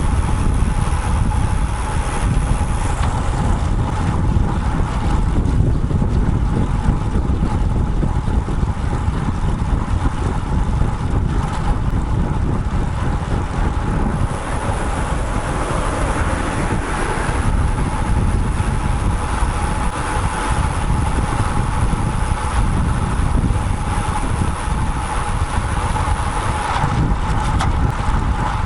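Wind buffeting a bike-mounted action camera's microphone while a road bike is ridden along a road, mixed with passing traffic, with a thin steady tone throughout.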